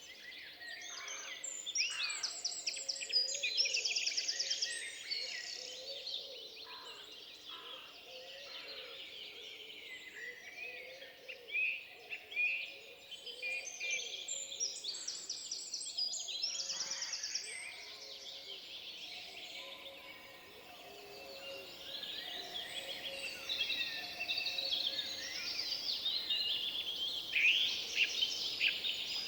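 Several songbirds singing together in a forest, with fast, high trilled phrases about two seconds in and again around fifteen seconds, over fainter lower chirping.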